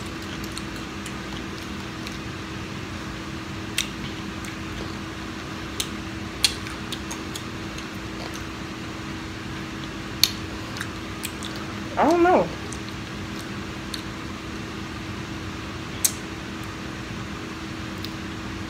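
People chewing pickle wrapped in cotton candy, with a few sharp mouth clicks, over a steady low hum. About twelve seconds in comes one short vocal sound that slides down in pitch.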